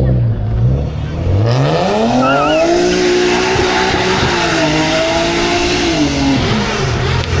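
A car engine revs up and is held at high revs for about three seconds with tyre squeal over it, then the revs drop near the end: a car being driven hard with its tyres spinning.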